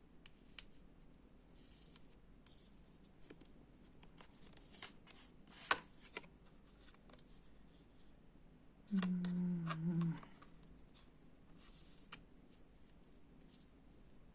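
Tarot cards being handled: shuffled and drawn from the deck, a scatter of soft snaps and slides, with one sharper snap about six seconds in. A short hummed 'mm' from a person about nine seconds in.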